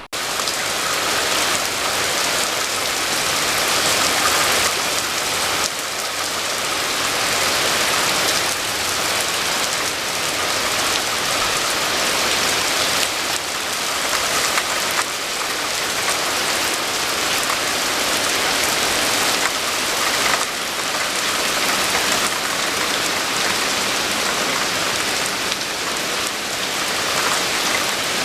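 Steady, heavy rainfall: a continuous hiss of rain falling on surfaces.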